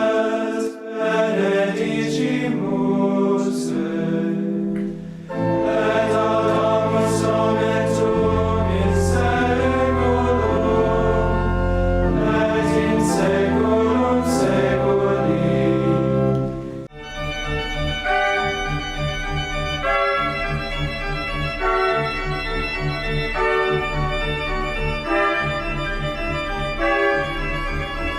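Liturgical music: a choir singing with organ accompaniment, the organ bass coming in a few seconds in. About two-thirds of the way through, the singing stops abruptly and the organ plays on alone.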